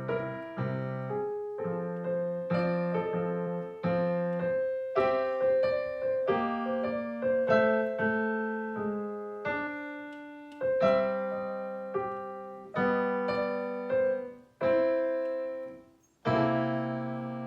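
Solo piano playing a melody over chords, each note struck and decaying. A final chord is struck near the end and left to ring.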